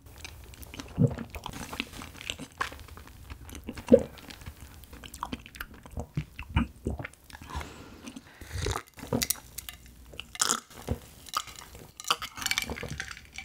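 Close-miked chewing of soft, sticky Korean rice cake (tteok): wet smacks and clicks at an irregular pace. Near the end there are a few gulps from a drink.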